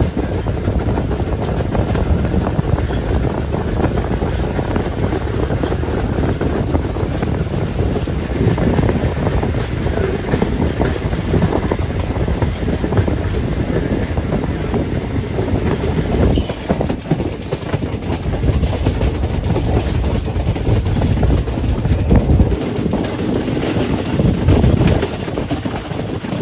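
Passenger train coaches rolling along the track, wheels clattering over the rails, heard from an open coach doorway.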